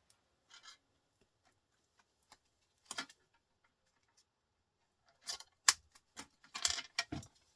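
Scattered clicks and light clatters of small printer parts being handled while the printer is dismantled for scrap: one click about three seconds in, then a run of clicks and rustles later on, the sharpest a little past halfway.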